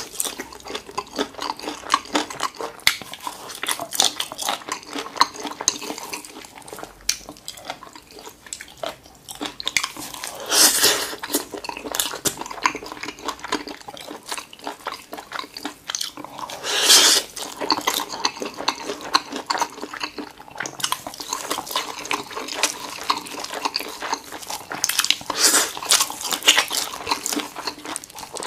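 Close-miked eating of spicy chicken feet in sticky sauce: wet chewing and mouth clicks with frequent smacks. A few louder wet bursts come about a third of the way in, a little past halfway, and near the end.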